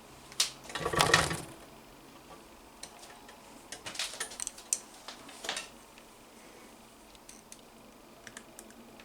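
Clicks and clatter of small hard parts being handled, with the loudest rattle about a second in and more scattered clicks between about four and five and a half seconds.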